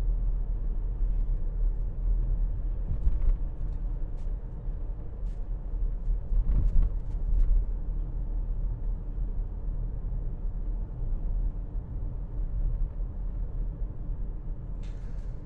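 Steady low rumble of a car on the move, heard from inside the cabin, with a few faint clicks in the middle.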